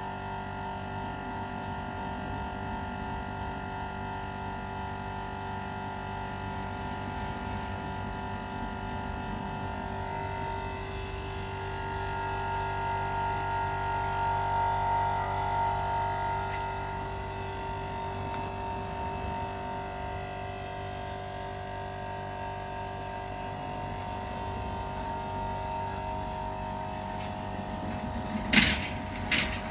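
Home-made air compressor running with a steady hum, swelling a little in the middle, then two sharp clicks near the end.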